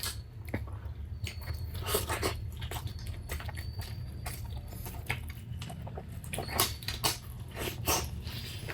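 People eating with spoons: scattered short clinks and mouth smacks of chewing, irregular throughout, over a low steady hum.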